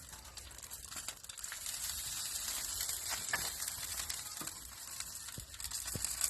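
Hot pork fat sizzling: a steady high hiss that swells after the first second or so, with small crackles and pops.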